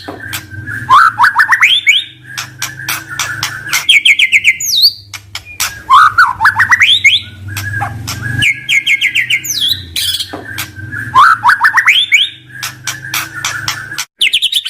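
Murai (magpie-robin) song: rapid trills and quick rising runs of notes with sharp clicking calls, the same phrase sequence repeating about every five seconds as in a looped recording made to provoke a caged bird into rapid 'firing' song. A low steady hum runs underneath.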